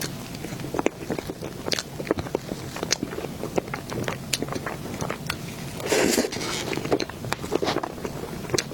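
Close-miked eating: a person biting and chewing food, with many short wet mouth clicks and a louder, longer bite or crunch about six seconds in.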